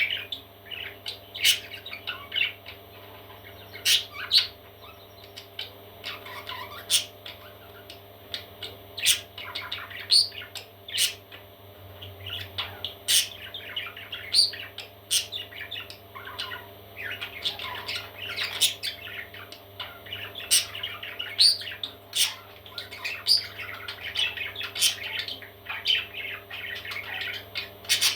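Parrot chicks squawking and chirping in a busy, continuous chatter, with short sharp squawks every second or so. A steady low hum runs underneath.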